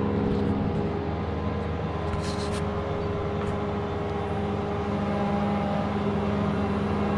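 Tractor diesel engine running at a steady speed, an even hum that dips slightly in level midway.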